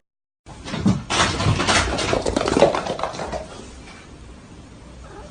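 A pet animal's noises, loudest from about one to three seconds in, then fading to a low hiss.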